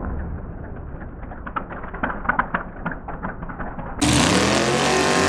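1966 Chevy Nova drag car's engine running at low speed with a string of sharp crackles and pops. About four seconds in, it cuts suddenly to the engine at full throttle, loud, its pitch rising as the car launches.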